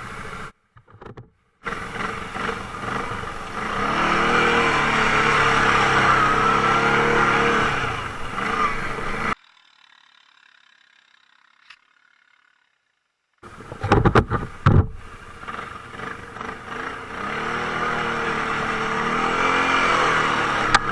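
Quad bike (ATV) engine revving hard under load, its pitch rising and falling. It drops out for a few seconds of near silence, then a few sharp knocks come at about 14 s before the engine revs again.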